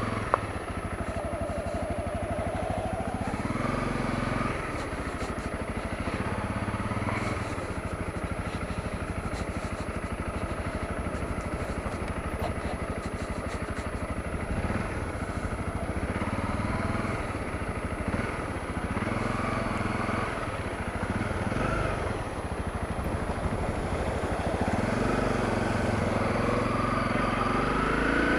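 Honda CRF250L dual-sport motorcycle's single-cylinder engine running at low speed, its pitch rising and falling with the throttle and climbing near the end.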